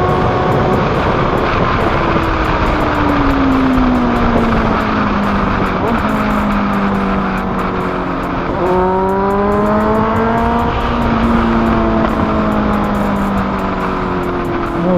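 Honda CBR's engine through an SC Project exhaust, heard while riding over steady wind rush. The engine note falls as the bike slows. Just before the middle the pitch jumps and climbs as the rider accelerates hard, then levels off.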